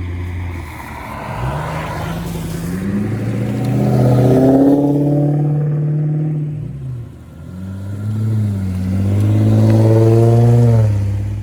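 Custom car with an aftermarket exhaust pulling away. The engine note rises, drops off about seven seconds in, then rises again and holds high near the end.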